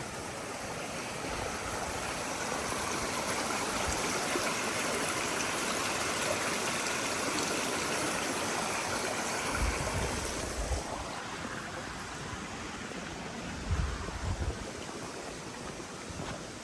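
Running water of a stream or small outflow rushing steadily, growing louder over the first few seconds and fading after about eleven seconds as it is passed. A few soft low thumps come through near the middle and end.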